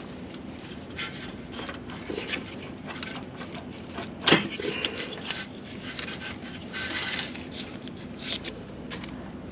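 Irregular scraping and clicking, with one sharp knock about four seconds in, over a faint steady hum.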